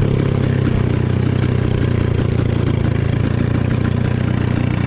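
Dirt bike engine running steadily at an even, low pace, with no revving.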